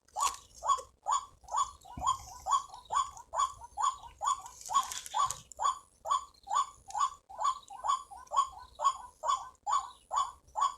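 White-breasted waterhen calling: a long series of short, evenly spaced notes, about three a second.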